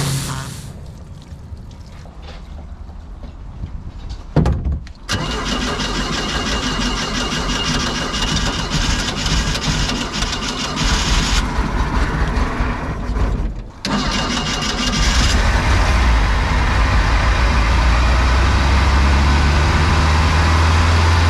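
Boat engine being started: quiet at first, then cranking and catching about four to five seconds in. It runs, cuts out briefly about two-thirds of the way through, then comes back and settles into a steady idle.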